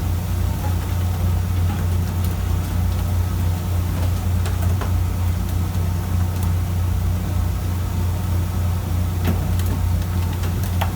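Fishing boat's engine running steadily with a deep, even drone, with a few faint clicks over it.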